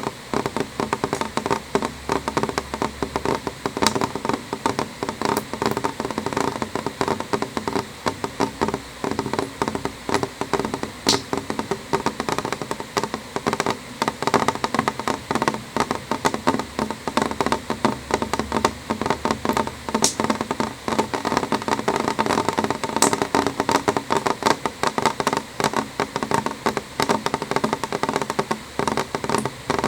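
Rain falling on a window pane: a dense, irregular patter of many small drop taps, with a few sharper ticks standing out.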